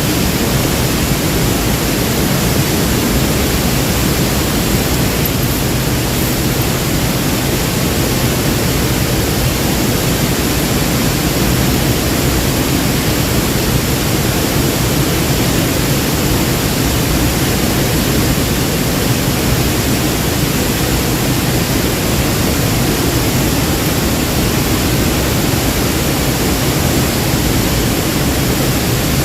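Waterfall: falling water rushing loudly and steadily, with no change.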